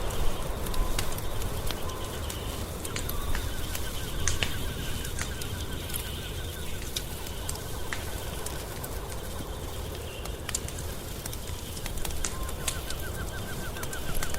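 Wood fire crackling, with frequent sharp pops over a low steady rumble. A rapid ticking trill comes in twice, a few seconds each time.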